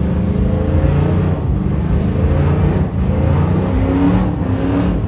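Loud truck engine revving hard, its pitch rising and falling repeatedly.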